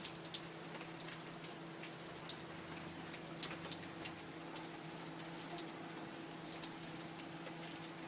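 Rain falling steadily, with irregular single drops ticking sharply close by.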